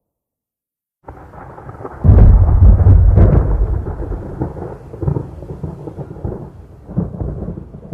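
A thunderclap. A low rumble starts about a second in and breaks into a loud crack about two seconds in. A long rolling rumble follows, slowly fading with a few smaller surges.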